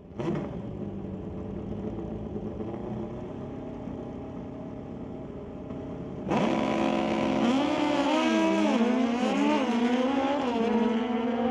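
Drag-racing motorcycles. Engines run at a lower steady level for about six seconds, then launch suddenly and louder, revving up in pitch and dropping back at each gear shift, three or four times, as they accelerate down the strip.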